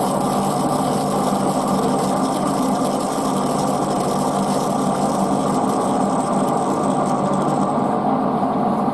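Metal lathe running with a steady mechanical hum, machining a brass piece.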